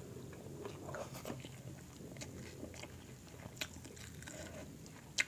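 Quiet chewing and eating mouth sounds from a mouthful of seafood boil eaten by hand, with scattered faint clicks and a sharper click near the end.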